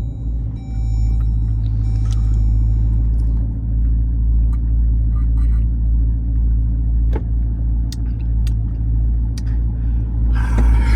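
Jeep Grand Cherokee Trackhawk's supercharged 6.2-litre V8 running with a steady low rumble, a little louder from about half a second in.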